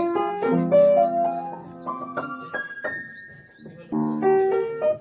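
Background piano music: struck notes and chords in flowing runs, each note ringing and fading.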